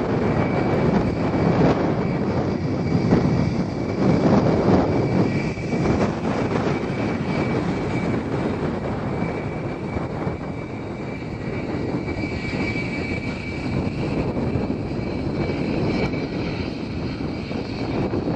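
Aircraft engines running: a broad rumble with a thin, steady high whine over it, a little louder in the first few seconds.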